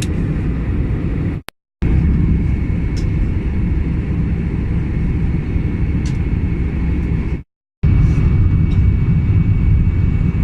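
Steady rumble of an Airbus A320's engines and airflow heard inside the passenger cabin in flight, with a faint steady whine. The sound cuts out abruptly twice.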